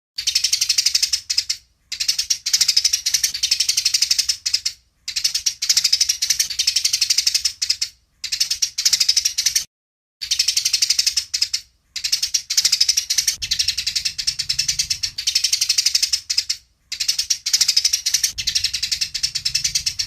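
Eurasian tree sparrow giving a rapid, dry chatter of fighting calls, in bouts of one to three seconds broken by short silent gaps.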